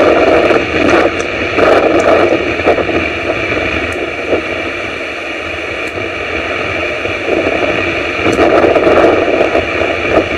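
Storm wind and rain on an outdoor camera's microphone: a loud rushing noise that swells in gusts, strongest near the start and again near the end.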